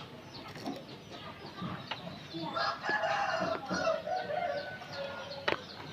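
Oriental magpie-robin chattering and singing, a run of quick high notes. A louder, longer held lower call sounds from about two and a half to nearly four seconds in, and there is a sharp click near the end.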